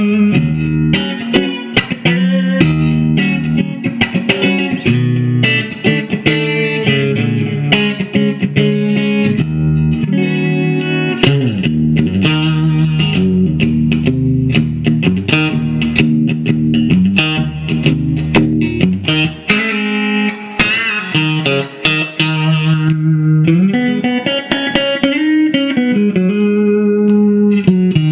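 1962 Fender Stratocaster electric guitar played through an amplifier, a run of picked single-note lines with bent notes, continuous throughout.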